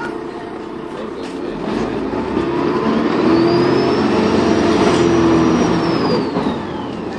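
Dennis Trident 2 bus's diesel engine pulling hard under acceleration, its turbocharger whistle climbing to a high pitch about three seconds in, holding, then falling away near the end as the engine eases off.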